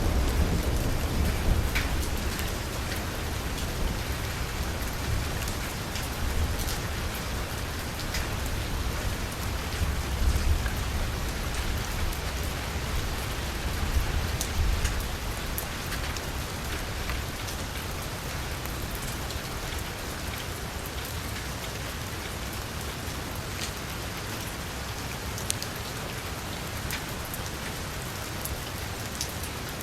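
Heavy rain falling on a car's roof and window: a steady hiss with scattered individual drop hits. A low thunder rumble dies away in the first couple of seconds, and fainter low rumbles swell briefly about ten and fourteen seconds in.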